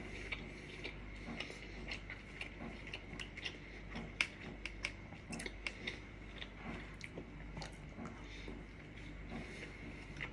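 A person biting and chewing a crunchy snack, with irregular crisp crunches.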